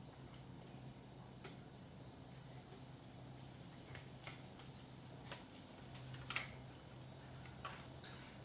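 Faint scattered clicks and small taps of hand work, the loudest about six seconds in, over a steady high-pitched whine and a low hum.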